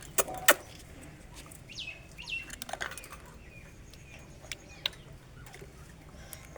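Two sharp clicks just after the start, then a few short bird chirps falling in pitch around the middle, with a couple more clicks later.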